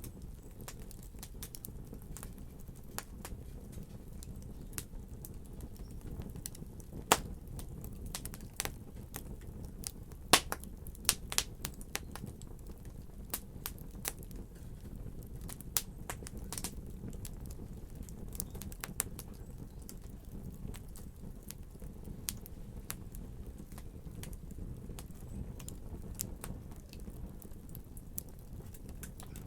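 Wood fire crackling in a fireplace: a steady low rumble of flames with scattered sharp pops, the loudest about seven and ten seconds in, and a busier run of pops between about ten and thirteen seconds.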